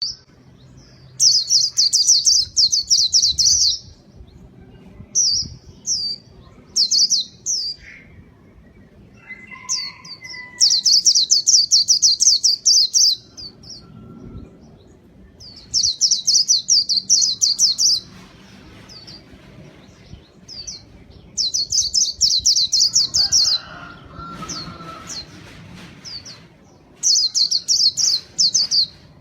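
White-eye (pleci) singing a loud, rapid trilled song in phrases of two to three seconds, repeated about every five seconds with short high chirps between. It is the lively 'gacor' song used as a lure for white-eyes.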